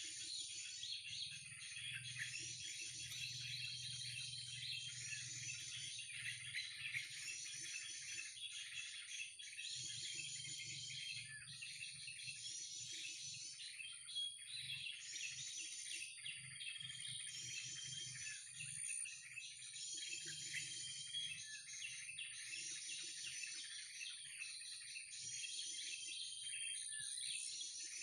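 Dense bird chirping and calling from a bird-call lure, with one high chirping phrase repeating about every two seconds, as a looped call does. A thin steady high tone runs beneath it.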